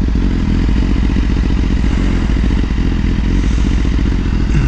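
BMW S1000RR's inline-four engine running steadily under way, a dense low exhaust note with no clear revving.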